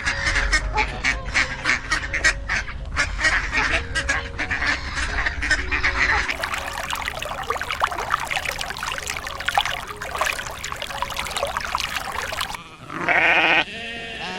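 A flock of waterfowl calling: quick, repeated quacking calls at about five a second, then a denser overlapping chorus that stops suddenly. One louder single pitched call follows near the end.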